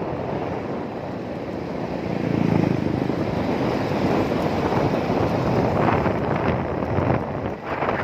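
Wind buffeting the microphone: a steady rushing noise that swells a little a couple of seconds in.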